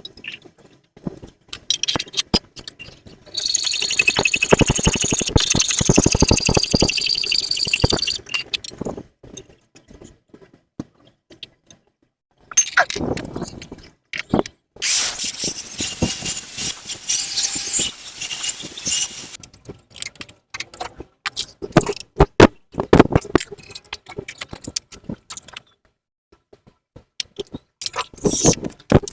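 Metal clinking, scraping and rattling of tools and exhaust parts being handled and fitted, with many sharp clicks and knocks and two longer stretches of dense scraping or rattling, each a few seconds long.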